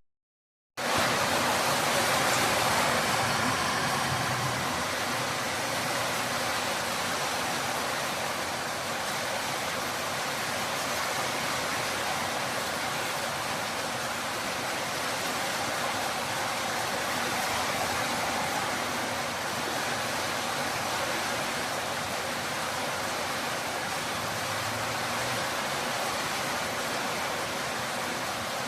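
Torrential rain falling as a steady, dense hiss, cutting in abruptly about a second in.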